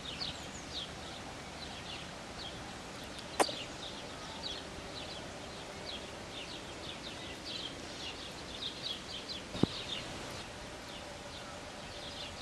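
Outdoor background of small birds chirping, short high notes repeating over and over, with two sharp clicks, one about three seconds in and one near ten seconds.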